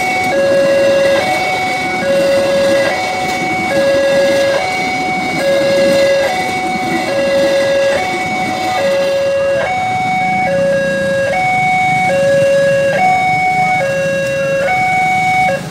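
Railway level crossing warning alarm sounding a loud electronic two-tone 'ting-tong', alternating a lower and a higher tone about every second, signalling that a train is approaching and the barriers are down. From about two-thirds of the way in a second alarm joins slightly out of step, with a low vehicle engine rumble underneath, and the alarm cuts off at the end.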